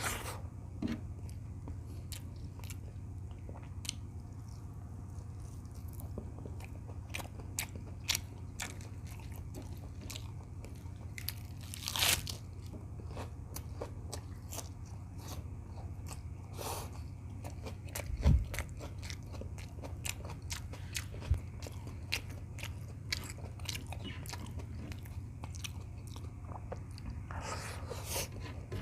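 Close-miked chewing and biting of a beef tocino and rice meal: many small wet mouth clicks and crunches, over a steady low hum. A single low thump about eighteen seconds in.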